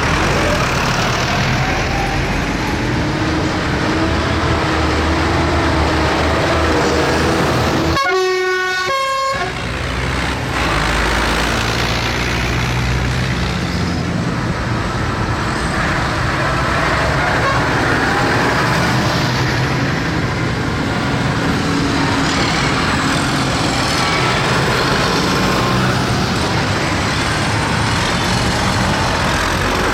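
Tractor engines running steadily, with a vehicle horn blowing once for about a second and a half about eight seconds in.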